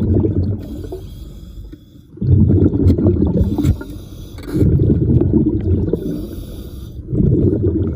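Diver breathing underwater through a regulator: a low bubbling rumble of exhaled air about every two and a half seconds, with a quieter hiss of each inhale between.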